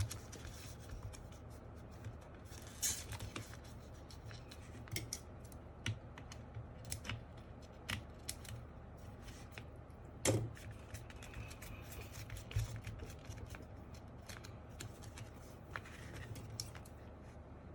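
Scissors cutting foam sheet, with irregular small snips, clicks and rustles of handling. The foam is being cut to line the bottom of a mechanical keyboard case. A steady low hum lies underneath.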